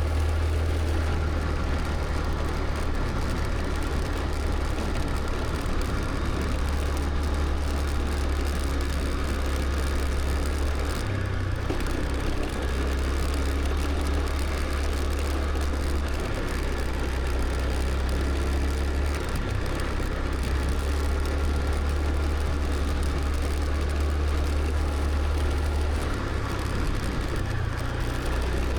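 Scooter running down the road with a steady engine drone and road noise. The low drone shifts a few times as the engine speed changes.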